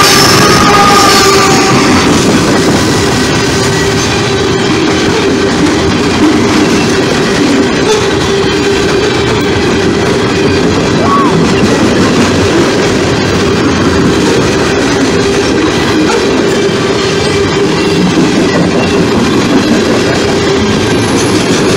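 Freight train cars rolling past close by, their steel wheels clattering over rail joints with a steady rumble and a low hum. The last of a horn note dies away in the first second.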